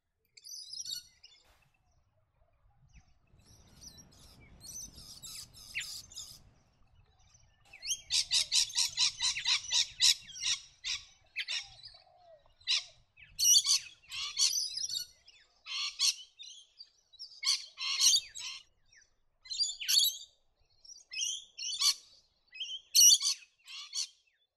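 Scaly-breasted lorikeets calling: shrill, high-pitched screeching and chattering notes in repeated bursts, with a dense run of rapid notes about eight seconds in.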